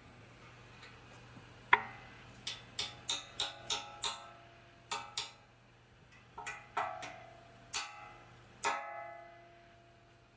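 A series of sharp metallic clanks. Metal is struck or knocked about a dozen times in uneven groups, and each hit rings briefly on the same few pitches. The first hit, about two seconds in, is the loudest.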